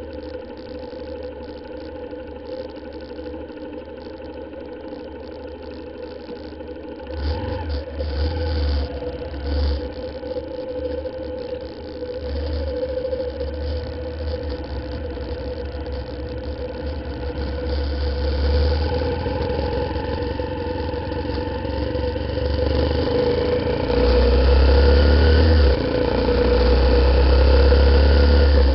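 Honda CBF125's single-cylinder four-stroke engine running steadily, then pulling away. Wind buffets the camera microphone in gusts from about a quarter of the way in, growing loudest near the end as the bike picks up speed.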